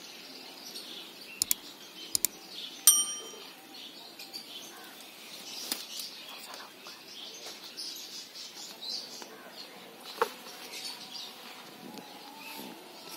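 A flock of budgerigars chattering and warbling steadily. There are two quick double clicks, then a single short ringing note about three seconds in, and another sharp click near ten seconds.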